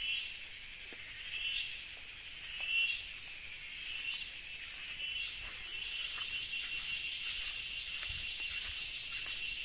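Insects calling in high, shrill swells about once every second and a half, which about halfway through merge into one steady, continuous drone.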